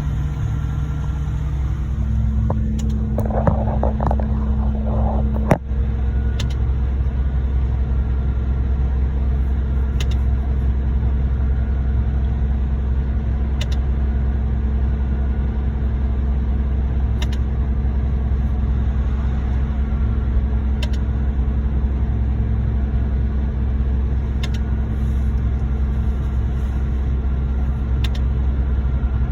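Diesel truck engines of a concrete pump truck and a ready-mix truck running steadily during a concrete pump pour. The engine note steps up a little about two seconds in. Faint clicks come roughly every three and a half seconds as the pump cycles, and there is one sharp knock about five and a half seconds in.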